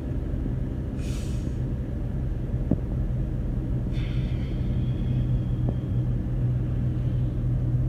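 Steady low hum of a car engine running, heard from inside the cabin.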